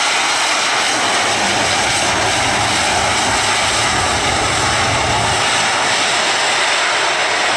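Boeing 737 jet engines running with a steady rush of noise, with a deeper rumble added through the middle few seconds.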